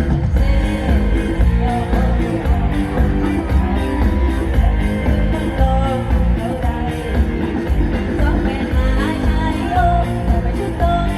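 Live Thai luk thung band music played loud through a concert sound system, with a heavy bass and drum beat and a melody line over it.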